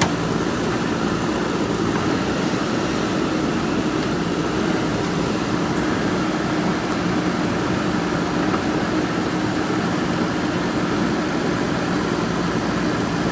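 Diesel engine of a JCB 3DX backhoe loader running steadily at a constant pitch.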